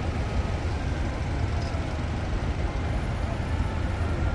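Steady low rumble of vehicle traffic, with no single event standing out.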